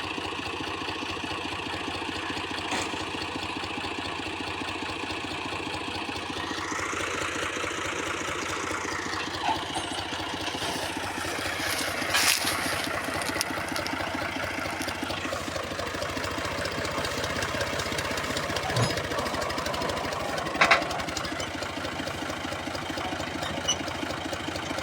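Al-Ghazi 65 hp tractor's diesel engine idling, revved up about a quarter of the way in and held there for several seconds, then easing back down to idle. A few sharp clicks sound over it.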